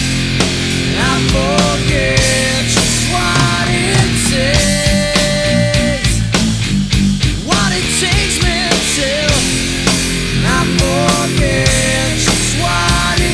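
Loud heavy rock music: a full band with drums and a lead melody that slides up into long held notes, the same phrase coming round about every six seconds.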